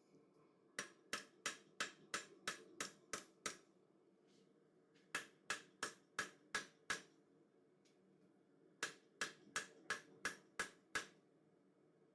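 Blacksmith's hammer striking hot 4140 steel bar stock on an anvil in three runs of quick blows, about three a second, with short pauses between: hand-forging the taper on a chisel.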